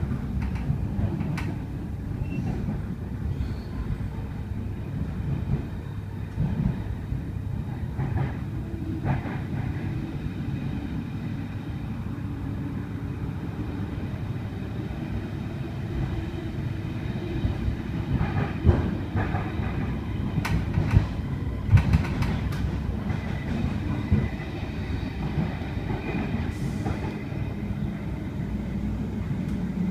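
Sydney Trains S-set double-deck electric train running, heard from inside the carriage: a steady low rumble of wheels on the track, with a run of sharp clicks from the wheels about two-thirds of the way through.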